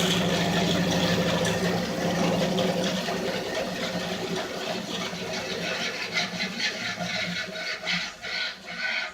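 Bandsaw running with a steady hum that slowly fades, and a few irregular clicks and rattles in the last few seconds.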